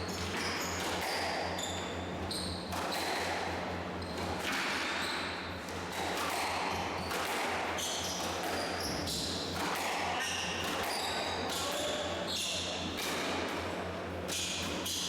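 A squash rally: the ball is struck by rackets and slaps off the court walls about once a second, with short squeaks of players' shoes on the court floor in between. A steady low hum runs underneath.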